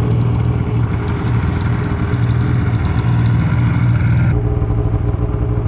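Snowmobile engine running steadily while riding, with a higher rushing noise over it that drops away about four seconds in.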